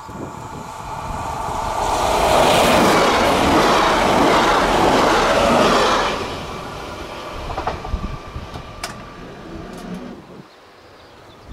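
SNCF TER regional multiple unit passing at speed: a rush of wheel and rail noise with some clickety-clack that builds, is loudest for about four seconds, then fades as the train recedes. A single sharp click near the end.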